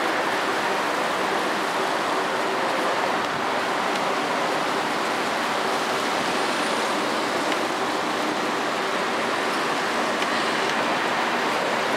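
Steady rushing noise of a TGV Duplex double-deck trainset rolling past, with a faint steady hum underneath.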